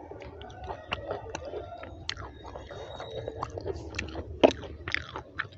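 A person chewing a mouthful of mutton curry and rice with wet, irregular smacking and clicking mouth noises, with one louder click about four and a half seconds in.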